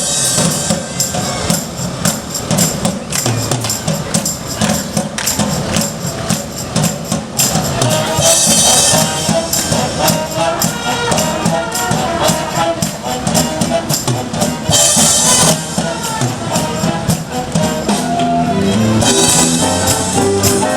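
A big band playing live, with horn lines over a drum kit keeping a steady beat. Bright cymbal crashes ring out about 8 seconds in, again around 15 seconds, and near the end.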